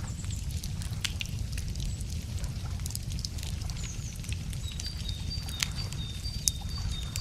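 Wood fire crackling, with scattered sharp pops over a steady low rumble. A small bird repeats a high two-pitched note at the start and again from about five seconds in.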